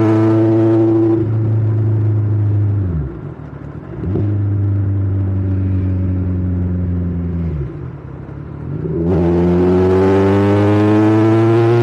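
Kawasaki Ninja 1000's inline-four engine and exhaust running at steadily held revs. The engine speed falls away twice and picks up again each time, the second time climbing in pitch near the end.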